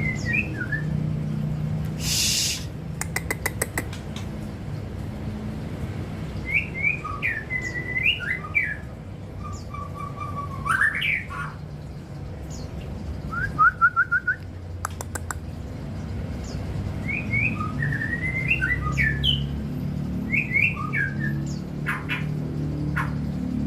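White-rumped shama (murai batu) singing in separate phrases of quick whistled and sliding notes, with a fast run of repeated notes in the middle and a short rapid rattle of clicks near the start. A steady low hum runs underneath.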